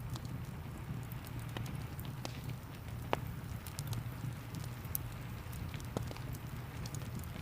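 Fireplace fire crackling with scattered sharp pops over a steady rush of rain, one pop about three seconds in standing out louder than the rest.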